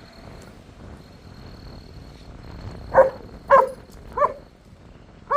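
A dog barking four sharp times in the second half, a little over half a second to a second apart, over a faint steady high insect-like whine.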